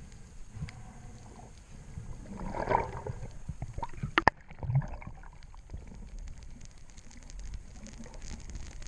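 Water sloshing and gurgling, with a sharp knock about four seconds in.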